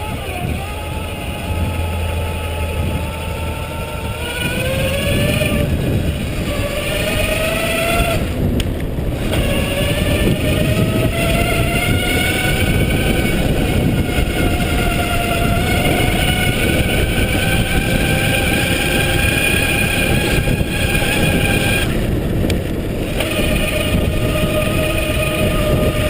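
Electric bike's motor whining under power, its pitch climbing twice as the bike speeds up and then holding steady, with wind rumble on the microphone beneath it.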